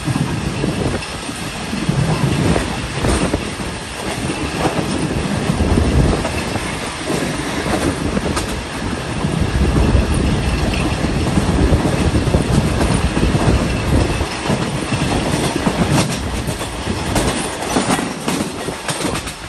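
Passenger train running along the track: a loud, steady rumble of the coaches with clickety-clack of wheels over rail joints and scattered metallic clanks.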